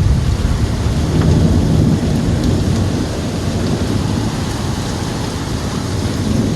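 Thunderstorm downpour: heavy rain pouring and wind gusting, under a steady deep rumble that is a little louder at the start.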